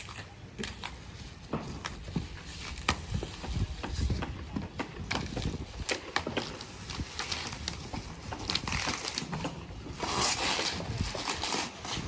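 Irregular knocks, clicks and clatter of parts and tools being handled during assembly, with a short rushing, scraping noise about ten seconds in.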